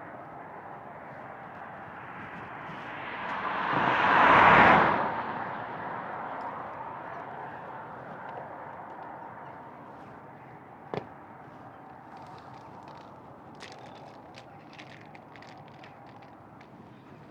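Riding sound of a Honda CB500 Hornet motorcycle: steady engine, wind and road noise that swells to a loud peak about four seconds in and then dies back down. A single sharp click comes about eleven seconds in, followed by faint scattered ticks.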